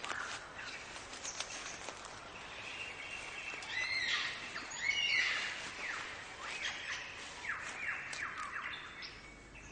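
Birds singing and calling: a busy run of chirps and sweeping whistled notes, thickest and loudest about halfway through, over a steady background hiss.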